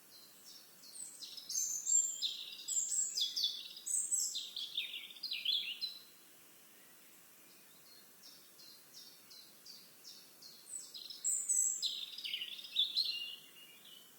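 A songbird singing: two long, jumbled phrases of rapid high notes, the first about six seconds long and the second about three seconds, with a quieter series of evenly repeated short notes between them.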